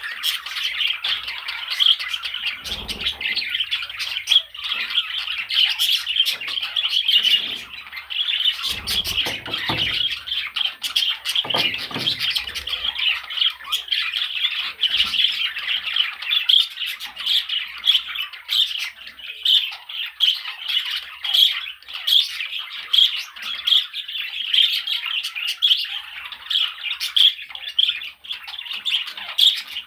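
Budgerigars chattering and chirping without pause, a dense run of quick high calls. A few low, dull thumps come through about three, nine and twelve seconds in.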